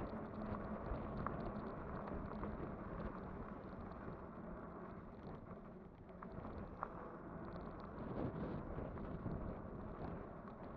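Riding noise from a Kugoo Kirin V5 e-bike under way: steady wind buffeting the microphone and tyre rumble, with a few faint light clicks.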